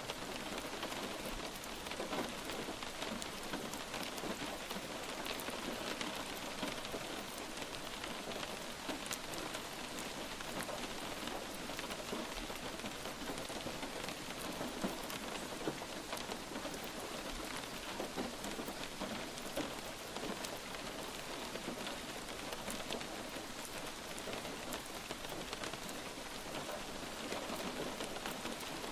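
Light rain falling steadily, an even hiss with individual drops ticking sharply here and there.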